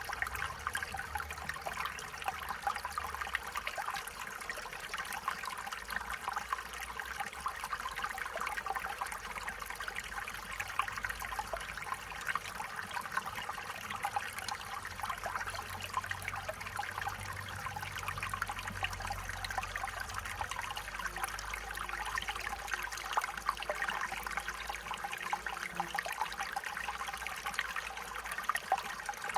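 Stream water trickling and babbling over stones, a steady run of bright splashing flickers without pause.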